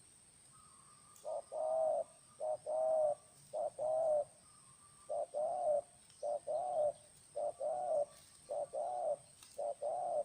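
Spotted dove (terkukur) cooing: about eight repeated phrases, each a short note followed by a longer one, in a steady rhythm.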